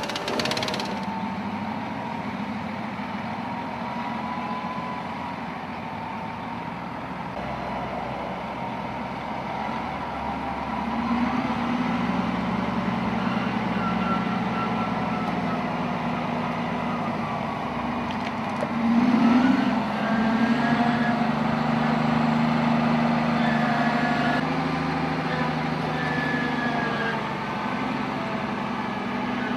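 Heavy construction machinery running with a steady low engine hum and shifting higher whining tones, growing louder about a third of the way in, with a brief louder surge about two-thirds through.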